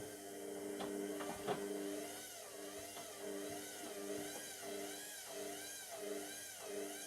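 Indesit MTWC71252WUK washing machine's drum motor whining as the drum turns, a couple of knocks about a second in, then the pitch wavering up and down in an even cycle about one and a half times a second. The drum holds a single bath mat, an unbalanced load the machine struggles with.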